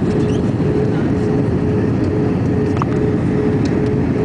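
Airbus A321 in flight: a steady, loud rumble of engines and airflow with a constant hum running through it.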